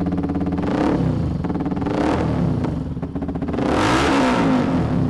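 Benelli TNT 135's single-cylinder four-stroke engine, breathing through a stainless-steel racing exhaust, idling and being revved up three times. The last rev, about four seconds in, is the highest and longest, then it drops back toward idle.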